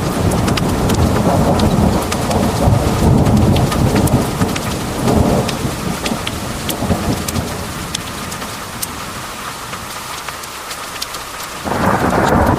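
Heavy rain pouring in a thunderstorm, with scattered sharp drop ticks. A long low rumble of thunder rolls through the first half and dies away, then a sudden louder surge starts near the end.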